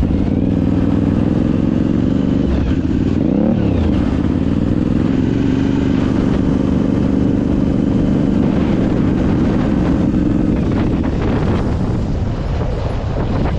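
Suzuki TL1000S 1000cc V-twin engine on a homemade quad running steadily under load. About three seconds in the pitch briefly drops and climbs back, and it eases off slightly near the end.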